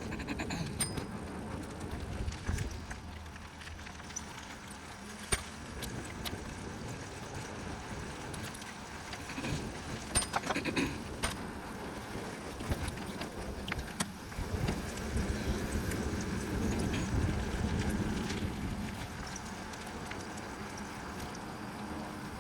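Trek Townie e-bike being ridden: a steady rumble of tyres rolling along a path with wind on the microphone, and a few sharp clicks and rattles scattered through.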